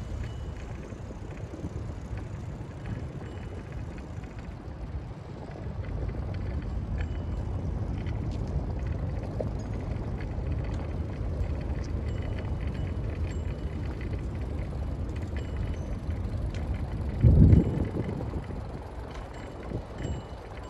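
Bicycle ride: a steady low rumble of tyres and wind on the microphone, with one short loud thump about seventeen seconds in.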